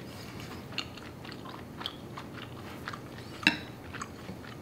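A person chewing chewy Korean rice cakes (tteokbokki) in black bean sauce, close to the microphone: a run of soft, wet mouth clicks and smacks, with one sharper click about three and a half seconds in.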